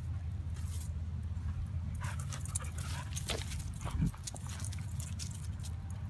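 A detection dog working a search, with a short whimper, over a steady low wind rumble on the microphone; a single low thump about four seconds in.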